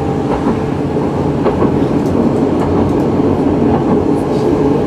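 Tram running along its track, heard from inside the car: a steady rumble of motors and wheels with a few faint clicks from the rails.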